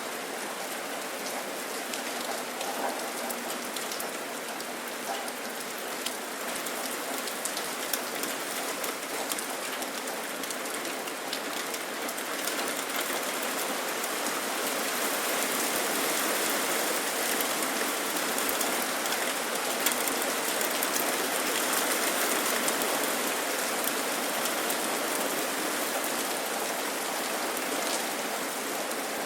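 Steady rain falling and pattering on surfaces, a continuous hiss dotted with individual drop ticks, swelling a little louder for several seconds midway.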